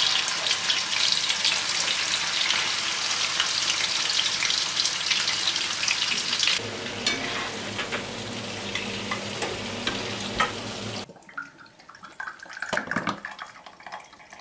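Nutria liver and offal frying in rendered fat and vegetable oil in a pan: a dense, crackling sizzle while a fork turns the pieces. About six and a half seconds in, it gives way to a lower, steadier sizzle. It cuts off about 11 seconds in, leaving a few faint handling and pouring sounds.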